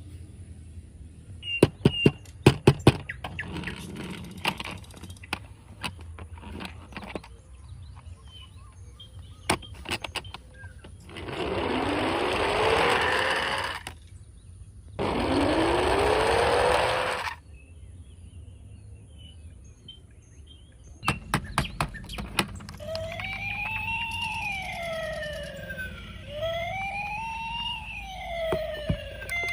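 Toy cars clicking and knocking as they are handled, then two whirring bursts, each with a pitch rising over a second or two. Near the end, a toy fire truck's electronic siren starts wailing up and down, about two seconds per rise and fall.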